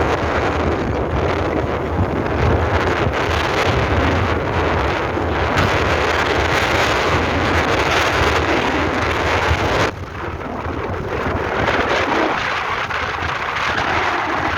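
Strong wind blowing and buffeting the microphone, a loud rush with deep rumble that drops abruptly about ten seconds in, then builds again.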